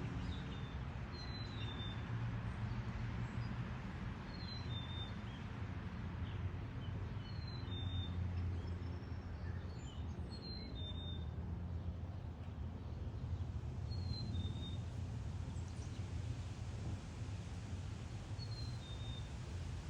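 A small songbird's clear two-note whistle, the second note slightly lower than the first, repeated about every three seconds, over a steady low background rumble.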